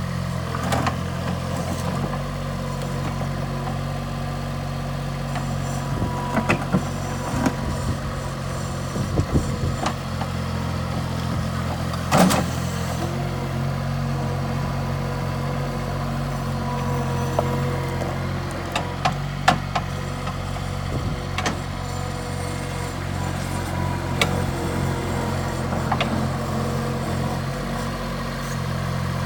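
Bobcat 463 skid-steer loader's diesel engine running steadily, with scattered sharp clanks and knocks now and then.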